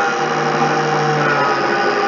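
An electric power tool's motor running steadily and loudly, its pitch sagging slightly and recovering about a second in.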